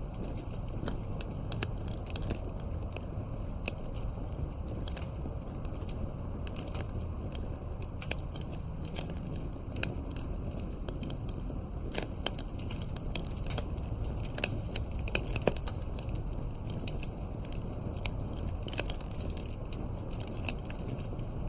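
Campfire burning with a steady low rumble and irregular sharp crackles and pops from the burning wood.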